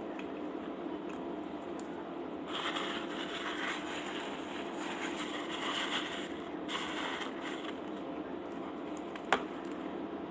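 Close-up eating noises: a crackly, rustling stretch of chewing and food handling from about two and a half to seven seconds in, over a steady low hum, with one sharp click near the end.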